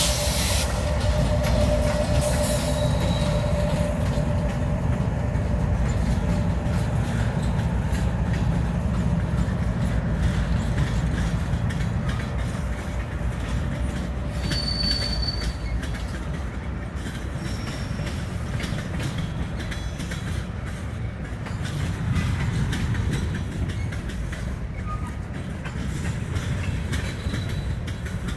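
Two BNSF diesel locomotives rumbling past at the head of a freight train, then the freight cars rolling by with wheels clicking over the rail joints. A short high wheel squeal comes about fifteen seconds in.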